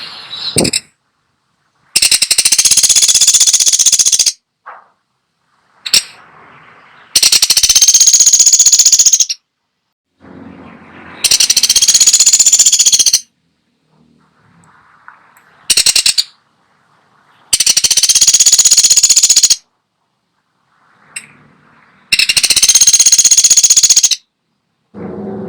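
Woodpecker giving a rapid, high-pitched rattling call, repeated about five times in bursts of about two seconds with short pauses between, plus one brief burst in the middle.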